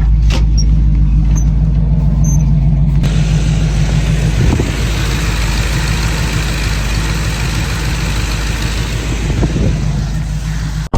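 1979 Chevrolet Impala's engine idling steadily. About three seconds in, a broader rushing noise rises over the idle and carries on to near the end.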